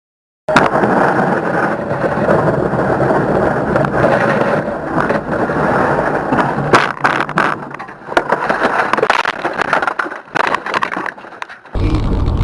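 Vehicle interior noise through a dashcam microphone: steady road and tyre rumble, with a run of sharp knocks and rattles about seven seconds in. It cuts abruptly to a deeper rumble near the end.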